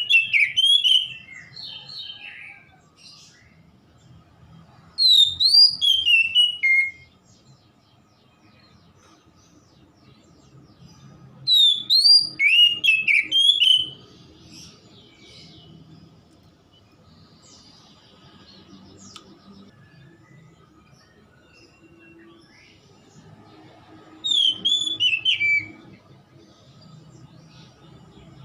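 Oriental magpie-robin (kacer) singing: four loud bursts of quick, rising and falling whistled notes, each a second or two long, with pauses of several seconds between them.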